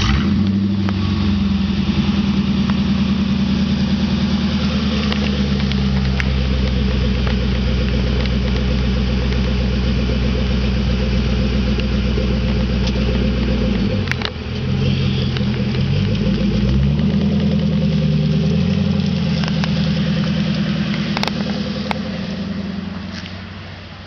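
1996 Ford Thunderbird's 4.6-litre V8 idling through an exhaust with no mufflers (factory Y-pipe and cats, then 2.5-inch mandrel-bent pipes), heard from the rear. The engine speed dips about 14 seconds in and comes back up a couple of seconds later, and the sound fades near the end.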